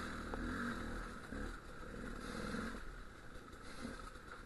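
Dual-sport motorcycle engine running at low revs on a rough trail, the revs rising and falling a little.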